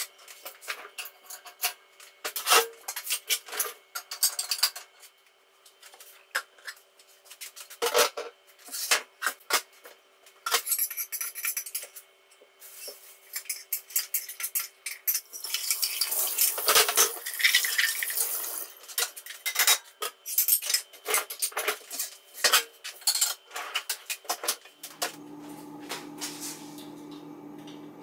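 Repeated clinks and clatters, like dishes and cutlery being handled, with a stretch of denser rushing noise in the middle. A steady low hum starts near the end.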